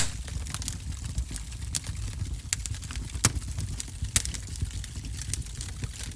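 Wood fire burning in a fireplace: a low, steady rumble of flames with irregular crackles and pops, one loud pop right at the start.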